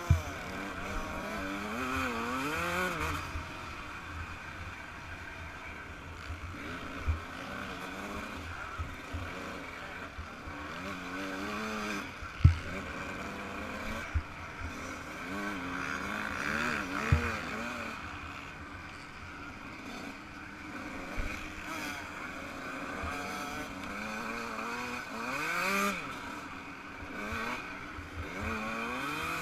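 Yamaha YZ125 single-cylinder two-stroke motocross engine revving up and falling back again and again as the bike is ridden hard. A few sharp knocks cut through, the loudest about halfway.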